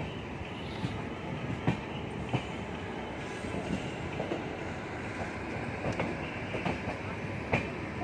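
Passenger train running on the rails: a steady rumble with scattered sharp clicks of the wheels over the track.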